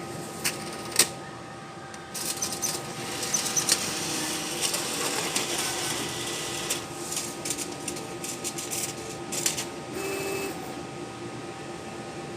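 ATM mechanism whirring and clicking for several seconds as it handles a cash deposit, with a short electronic beep about ten seconds in.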